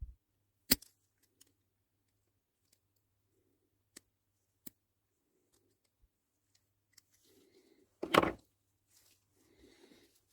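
Sharp clicks of small parts and tools being handled during a bicycle shifter rebuild, one loud click just under a second in and two fainter ones around four seconds. A louder half-second clatter comes a little after eight seconds.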